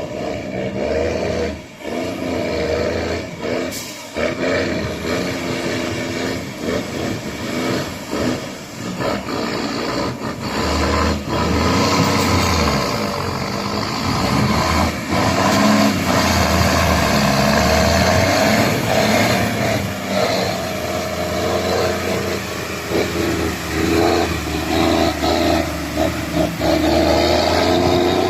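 Ford 9000 dual-axle truck engine running under load, its revs rising and falling again and again, with many short knocks and rattles throughout.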